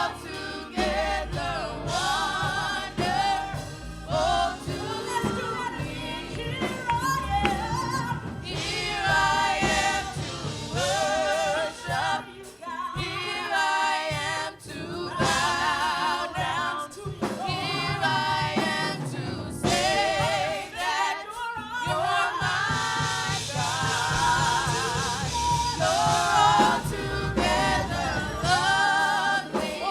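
Gospel worship music: a choir and lead voices singing, with wavering held notes, over instrumental accompaniment.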